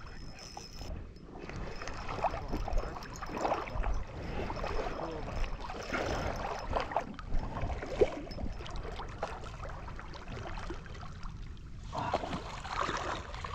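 Knee-deep floodwater splashing and sloshing unevenly while a big hooked carp is fought by anglers wading in it.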